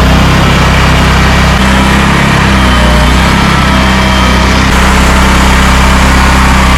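Gasoline engine of job-site equipment running steadily at constant speed, with slight shifts in its tone about a second and a half and nearly five seconds in.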